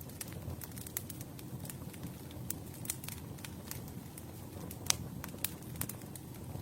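Campfire burning with a steady low rumble and irregular sharp crackles and pops of the burning wood, one louder pop about five seconds in.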